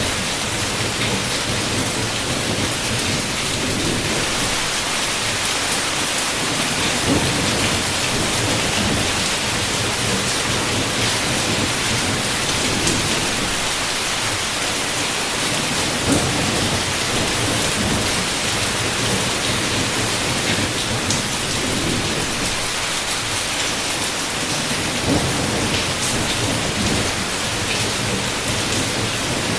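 Heavy rain falling steadily, with thunder rumbling low underneath in slow swells. A few louder drops or splashes stand out now and then.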